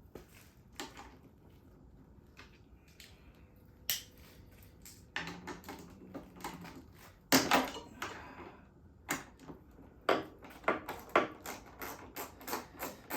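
A hand wrench working a bolt on a front-load washer's motor: scattered metal clicks and knocks, one sharp louder knock about seven seconds in, then quick regular clicking about three times a second near the end.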